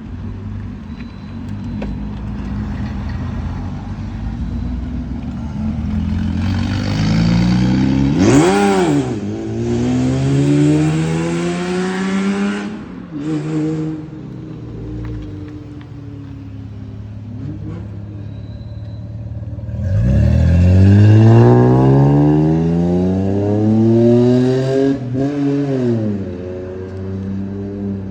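Cars accelerating hard away, engines revving up with rising pitch in two loud pulls, each broken by a quick dip in revs, the second pull the louder, over the rumble of other engines.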